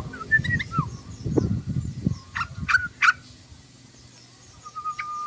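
Yellow-vented bulbul chattering: a run of short bubbly whistled notes, then a few sharp upward calls in the middle and one steady held whistle near the end. Low rumbling knocks sound under the first two seconds.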